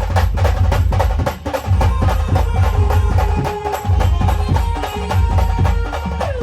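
Live Maharashtrian band music for dancing: fast, steady drumming over a heavy bass, with held melody notes above.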